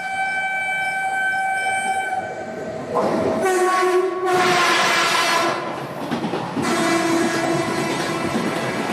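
Train horn held on a steady chord. About three seconds in, the rushing and rattling of a passing train begins, with further horn blasts sounding over it.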